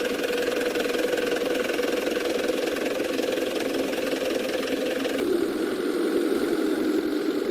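Radio-controlled truck running steadily with an engine-like hum; its tone shifts lower about five seconds in.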